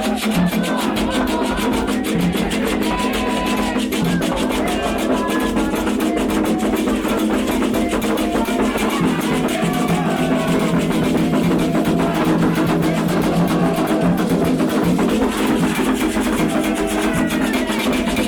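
Candomblé ritual music: hand drums and other percussion keep a fast, steady rhythm while voices sing over it.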